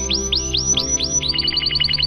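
A songbird singing a series of repeated notes: about five slower upward-sweeping notes, then about a second in it breaks into a rapid trill. Underneath runs soft ambient music with steady held tones.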